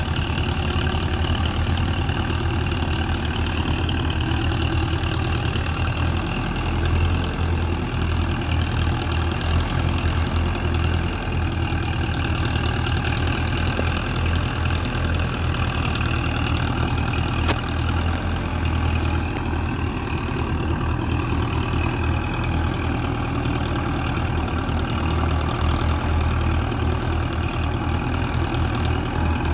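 Tractor diesel engine running steadily, a low even chug with no revving.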